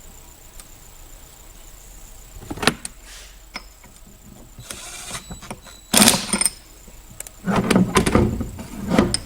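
Screws being driven into an aluminium intake part with hand tools: a few short bursts of clicking and rattling, with a longer run of it near the end.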